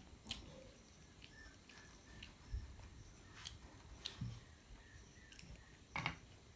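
A child quietly chewing a mouthful of chow noodles, with several short sharp clicks from the chopsticks and the mouth, the loudest near the end.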